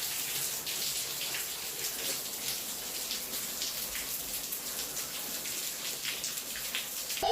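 Water spraying and splattering steadily, a continuous hiss full of small splashes.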